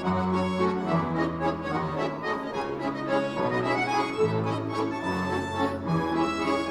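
Bayan orchestra, an ensemble of Russian button accordions, playing a classical piece: held bass notes that change about once a second beneath a busy reedy melody.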